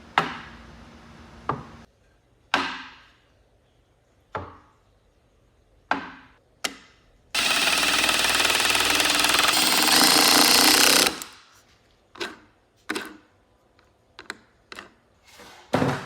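Woodworking tools and wood parts knocking sharply a dozen or so times at uneven intervals, with a loud steady power-tool noise that starts abruptly a little past the middle, runs for about four seconds and stops.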